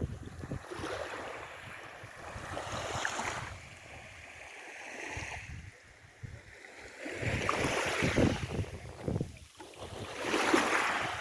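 Sea waves washing in repeated surges every two to three seconds, with wind buffeting the microphone as a low rumble.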